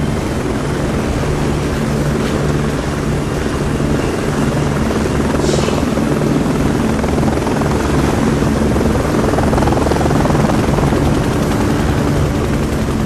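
Kamov Ka-62 helicopter running: a steady drone of rotors and turbine engines, with a few even low tones under it.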